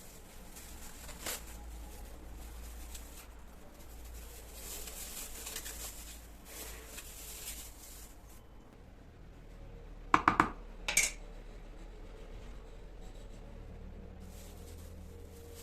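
Light rustling and handling of kitchen items, then a quick run of sharp clicks or knocks about ten seconds in and one more a second later.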